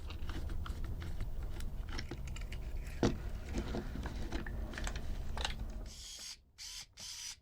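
Light clicks and rattles of small plastic parts and gears being handled and fitted together in a vintage toy RC truck's gearbox.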